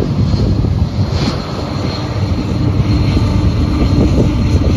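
Union Pacific freight train passing, with a steady low rumble from the rolling cars and the drone of a diesel locomotive in the train as it comes by.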